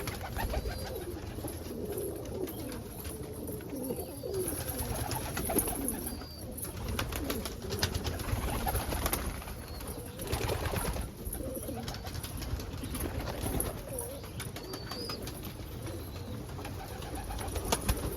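A loft of homing pigeons cooing throughout, over many quick small clicks of beaks pecking at scattered grain, with a few short bursts of rustling.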